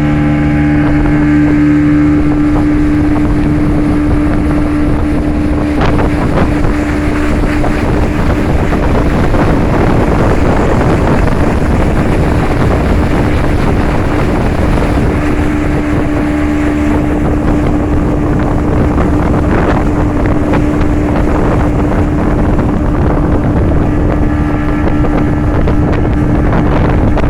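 Speedboat engine running steadily under way, with a constant hum over the rush of the hull through water, and wind buffeting the microphone.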